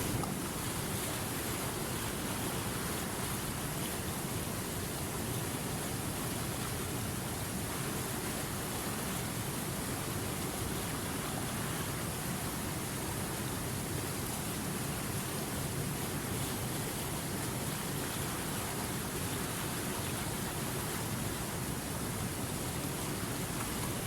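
River water flowing, a steady even rush of water with no individual splashes or other events standing out.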